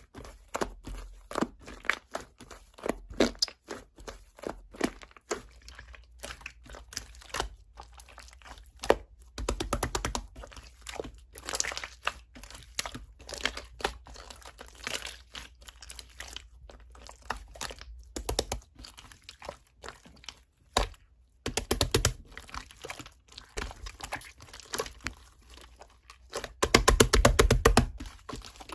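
Slime being squished and pressed by hand, making a quick run of small sticky clicks and crackles. The clicking comes in louder stretches about ten seconds in and again near the end.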